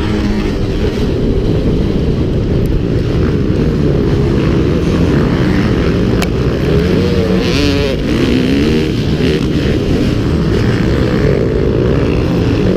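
Motocross motorcycle engines running hard, the engine note rising and falling as the riders work the throttle.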